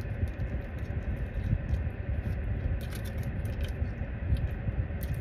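A person chewing a mouthful of food, with a few light clicks, over a steady low rumble inside a car.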